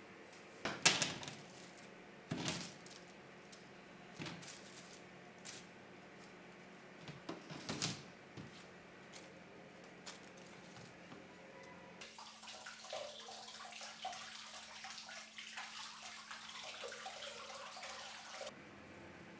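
A few sharp knocks and clatters, the loudest about a second in, then water running steadily for about six seconds and stopping suddenly.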